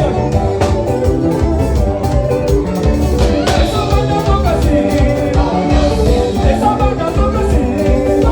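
Live band playing upbeat dance music with singing over a steady drum beat.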